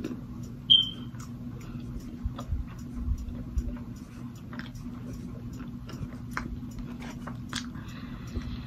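A person chewing a bite of grilled flatbread wrap, with many small irregular mouth clicks and smacks. A brief high squeak sounds about a second in, and a steady low hum runs beneath.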